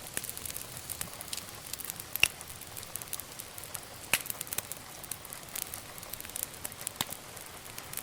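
Wood fire crackling: irregular sharp pops and snaps over a soft steady hiss, with a louder pop a little after two seconds.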